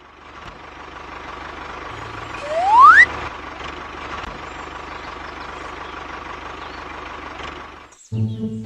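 A small motor running steadily with a fast low pulsing. About two and a half seconds in, a loud whistle-like tone rises sharply in pitch for half a second, and the running sound cuts off just after eight seconds.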